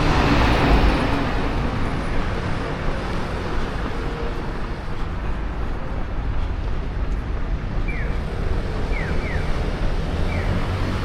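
Road traffic noise, a steady rumble with a vehicle passing close in the first second or so. In the last few seconds short chirps that fall in pitch repeat several times over it.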